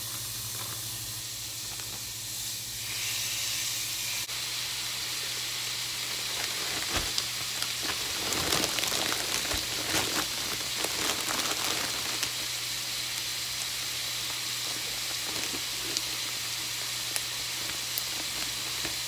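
Ground beef sizzling as it fries in a pan. The sizzle gets louder about three seconds in, and there is a run of short knocks and scrapes from stirring it in the middle.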